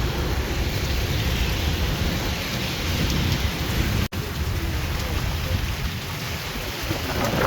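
Heavy rain pouring steadily in a thunderstorm, with a low rumble underneath. The sound cuts out for an instant about four seconds in.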